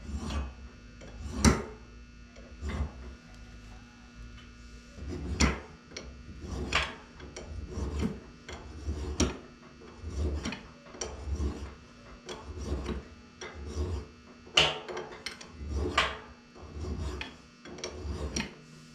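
Hand work on hydraulic cylinder parts at a workbench: repeated rubbing or scraping strokes about once a second, with sharp clicks and knocks of metal parts, two of them louder.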